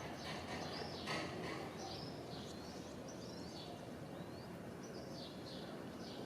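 Birds chirping: a string of short high calls, some of them quick upward or downward sweeps, over a faint steady outdoor hum.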